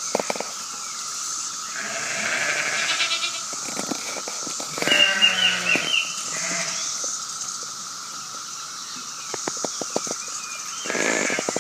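Chorus of periodical cicadas droning steadily and loudly, with a few short wavering calls and clicks over it.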